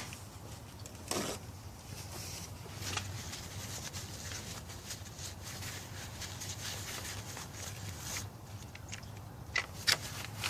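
Soft, steady rubbing hiss as the freshly washed car battery terminal and cable clamp are dried off, with a few sharp clicks near the end.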